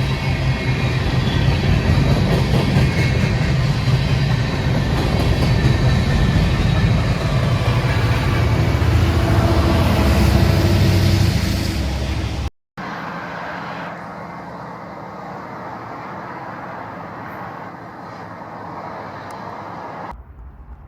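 Diesel-powered freight train running past, loud, with a steady low engine drone. About twelve seconds in the sound cuts out briefly, and a quieter, steady train rumble follows.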